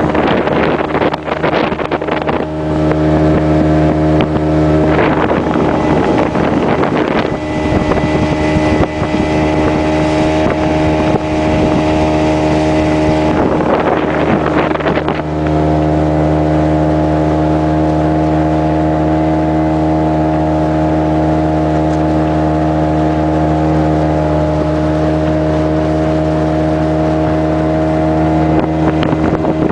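Small boat's outboard motor running steadily at cruising speed. Broad rushing noise of wind and water sweeps over it for several seconds near the start and again about halfway through.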